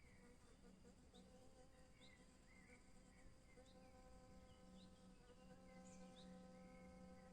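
Faint forest birdsong: short high chirps scattered throughout. Over it a steady insect buzz, like a hovering fly, comes in about half a second in and holds.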